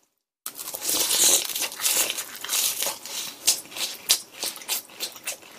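Close-up crunching as a mouthful of breaded, deep-fried pork cutlet is chewed: dense crisp crunches starting about half a second in, thinning to sparser crunches later on.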